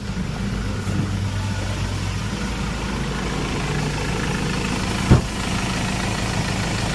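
Ford Ranger XLT engine idling steadily, running again now that the burnt ECU has been replaced with a new, programmed one. A single short click about five seconds in.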